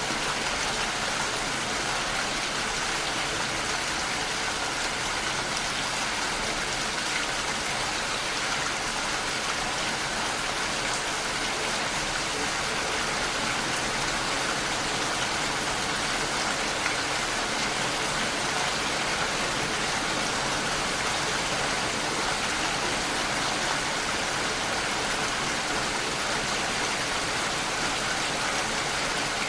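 Steady rain against a window, an even hiss of falling drops that does not let up or change.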